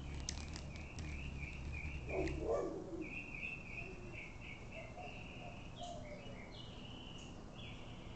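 Small birds chirping in runs of high, rapid chatter, with a brief lower-pitched sound about two seconds in that is the loudest moment. A low hum underneath stops at the same point.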